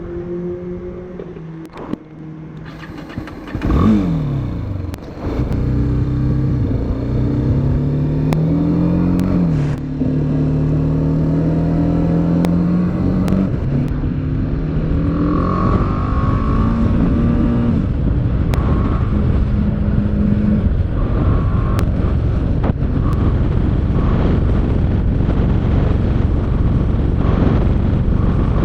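Motorcycle engine revving sharply about four seconds in, then pulling away, its pitch climbing and dropping back at each of a few gear changes. Later a steady rushing noise of wind and road takes over at speed.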